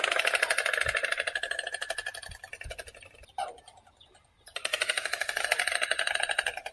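White stork clattering its bill: a rapid wooden rattle of a dozen or more clacks a second, in two bouts with a pause of about a second roughly three seconds in.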